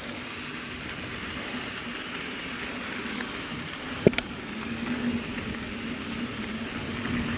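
Mountain bike riding noise: a steady rush of tyres and drivetrain on a dirt trail with a faint low hum, and one sharp click about four seconds in.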